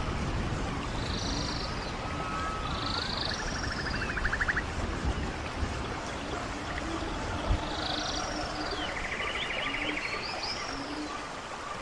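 Steady rush of running stream water, with repeated animal calls over it: a short high call with an arching top and a buzzy trill, coming back every couple of seconds.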